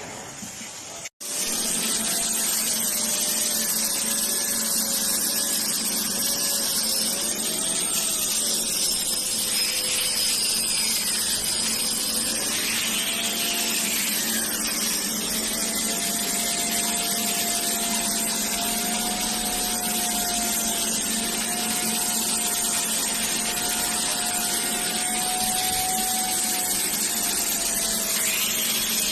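A machine running steadily: a constant hiss with a faint whine that drifts slowly up and down in pitch, cut off briefly about a second in.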